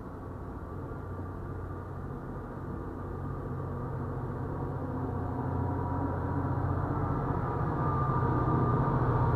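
Commuter rail coaches rolling slowly past, with a diesel locomotive's low engine drone growing steadily louder as the locomotive at the end of the train comes up. The sound is heard muffled through a car's body.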